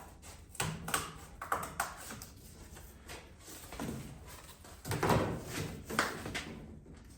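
Cardboard being cut by hand: a series of irregular cutting strokes, the strongest a little past the middle.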